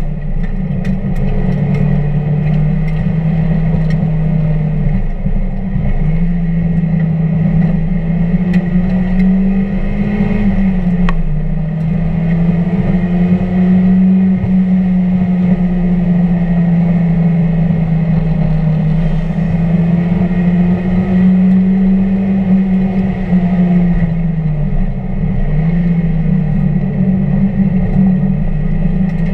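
1999 Mazda Miata's 1.8-litre four-cylinder engine running hard on track, its note climbing and falling with gear changes and braking, with a clear dip about 25 seconds in.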